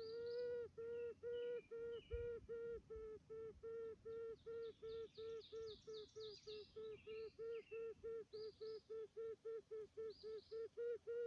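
A grouse calling a long, even series of short nasal notes, about three to four a second, with faint songbird chirps above it.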